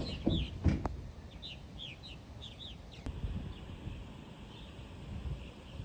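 Small birds calling in short downward chirps, several coming in pairs, over a low wind rumble, with a couple of soft knocks in the first second.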